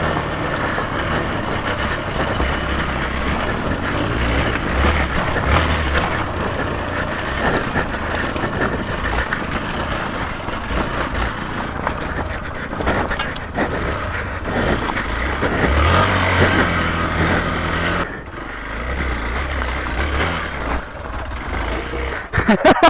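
Hero Xpulse 200 4V off-road motorcycle being ridden, its single-cylinder engine revving up and down with the throttle. It drops off briefly about eighteen seconds in.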